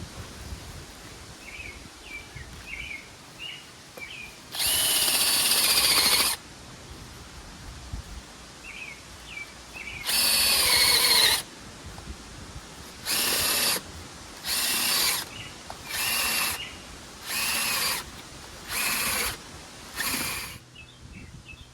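Power drill run in bursts: two longer runs, then six short trigger pulses about a second and a half apart, its whine dropping in pitch during each run. Faint bird chirps between the bursts.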